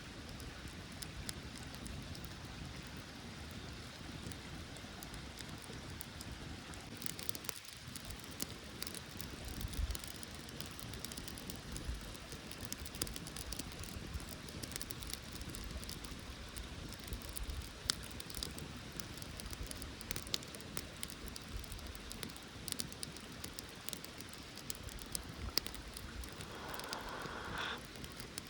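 Campfire crackling: scattered sharp pops and snaps over a steady hiss, with a low rumble underneath.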